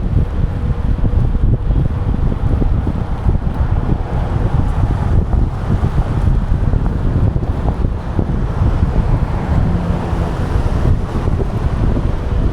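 Wind buffeting the microphone of an action camera mounted on a moving bike: a steady, loud rumbling rush.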